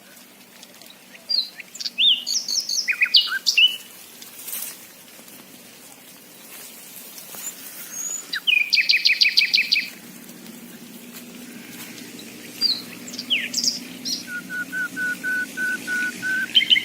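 Several birds calling: scattered quick chirps, a fast trill of about a dozen notes in the middle, and a run of about ten evenly spaced piping notes near the end, over a faint low steady hum.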